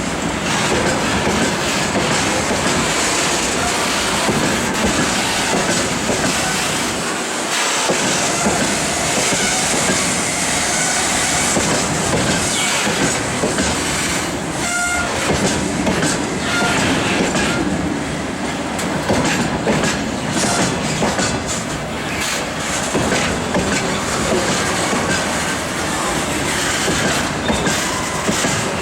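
Loaded freight train rolling past at speed, its wagon wheels clattering over the rail joints in a steady rumble and hiss. A short high-pitched tone sounds briefly about halfway through.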